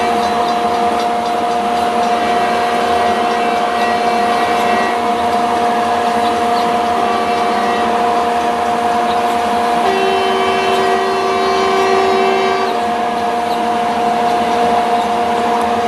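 Train sound: a steady mechanical drone with several constant whining tones. A further tone joins about ten seconds in and cuts off a couple of seconds later.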